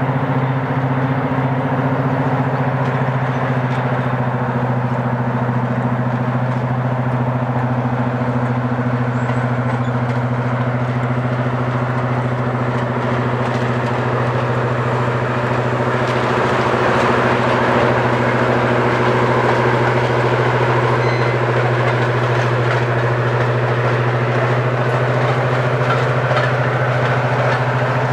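A train engine running with a steady low hum. A rushing noise grows louder about halfway through.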